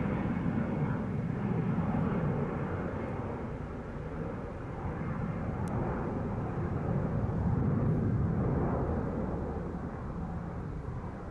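Low, steady drone of a fixed-wing aircraft's engines, easing off about four seconds in and building again towards eight seconds.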